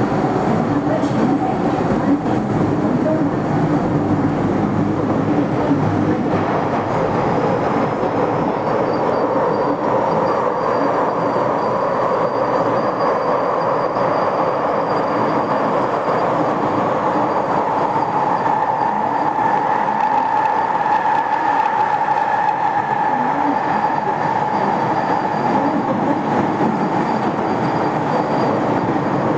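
MTR M-Train electric multiple unit running on the Kwun Tong line: a steady rumble of wheels on rail throughout. From about a quarter of the way in, a thin high whine from the train's traction equipment joins it.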